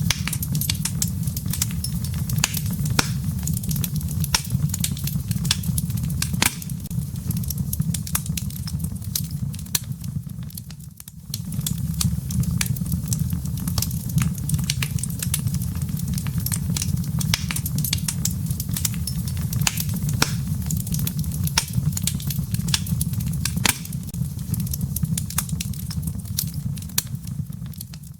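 Wood fire crackling in a fireplace: frequent sharp pops and snaps of burning firewood over a steady low rumble of the flames. The sound dips briefly about ten seconds in.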